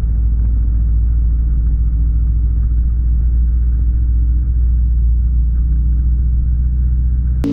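Steady low rumble of a moving road vehicle, engine and road noise, with a faint engine hum over it and no change in speed.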